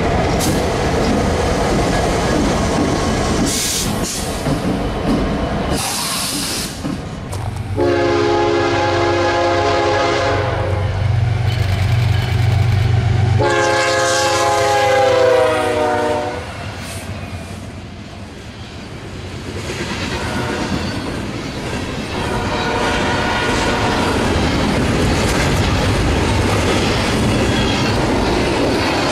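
Freight trains passing at track side: rolling noise from the cars, then a diesel locomotive's horn sounding two long multi-note blasts about eight and thirteen seconds in over a steady engine hum as the BNSF train approaches, followed by double-stack container cars rolling steadily past.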